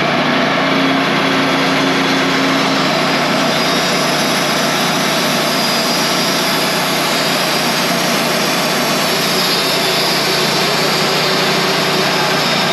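An engine running steadily at a constant speed, with a low hum standing out for the first few seconds.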